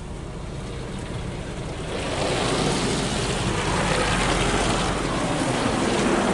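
Water and soap spray from a Ryko SoftGloss MAXX car wash hitting the car, heard from inside the car; the hiss swells about two seconds in and stays loud over a steady low hum.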